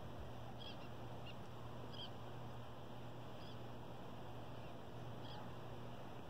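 Several faint, short bird calls at irregular intervals over a steady outdoor background of low hum and hiss.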